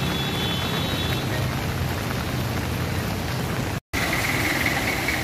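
Heavy rain falling steadily, with a vehicle engine running underneath as a low hum. About four seconds in, the sound cuts out for an instant, then a thin steady high tone joins the rain.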